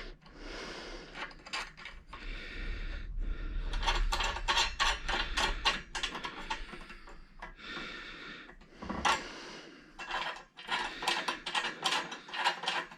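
Metal bracket hardware clicking and clinking as bolts are tightened into the table frame, in several runs of rapid clicks.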